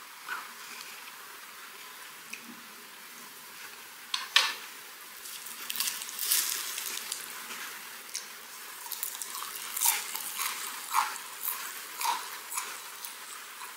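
Close-miked mouth sounds of eating a laver-and-seaweed wrap of semi-dried herring (gwamegi): wet crackling, clicks and smacks of biting and chewing. They are sparse at first, start about four seconds in and come in quick runs near the end.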